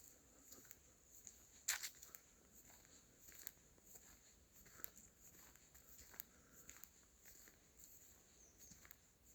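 Faint footsteps on a forest path, leaf litter crackling underfoot at an uneven walking pace, with one louder crackle about two seconds in.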